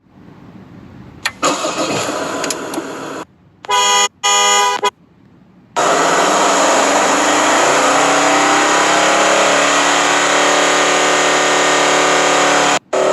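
Ford Endeavour: two short honks of the horn, then the engine running loudly, its pitch climbing slowly as the revs rise.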